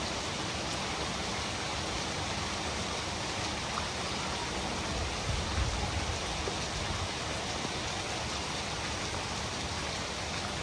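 Steady rain falling, an even hiss, with a brief low rumble about halfway through.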